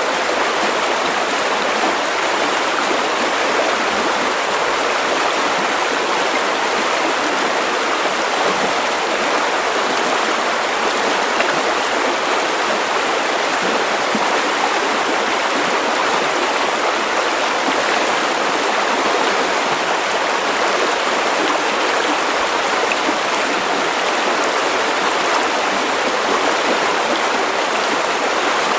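River water rushing and burbling steadily over stones.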